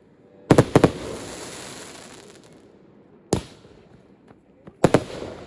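Aerial firework shells bursting in a professional display: a quick cluster of bangs about half a second in, trailing into a long fading hiss, then a single bang, and two more bangs near the end.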